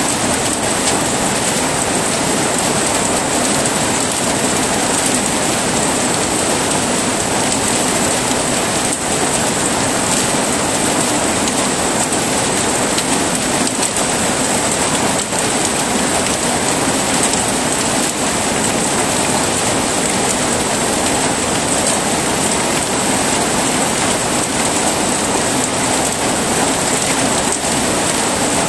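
Heavy rain falling steadily: a dense, even hiss of rain with scattered individual drop hits.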